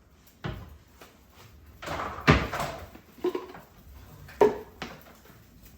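A handful of separate knocks and bangs of household handling, the loudest a clattering bang about two seconds in, with a sharp knock about four and a half seconds in.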